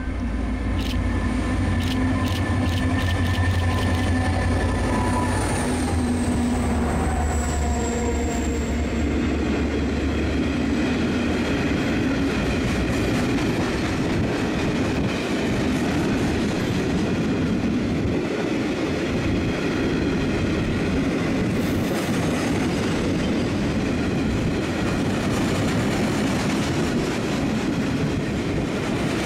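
A diesel freight locomotive passes close by at speed, its engine note falling in pitch as it goes past about six to eight seconds in. It is followed by a steady rumble of loaded steel-coil wagons rolling by, with wheel clatter and a thin wheel squeal.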